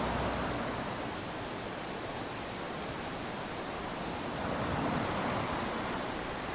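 Small waves lapping onto a sandy beach: a steady wash of surf, with one wave swelling and running up the sand about five seconds in.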